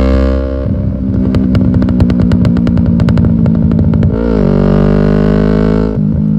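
Sport motorcycle engine running through an aftermarket exhaust, held at steady revs, with a rapid run of sharp crackles and pops for about three seconds. About four seconds in the pitch dips and climbs again, then the engine holds a steady note.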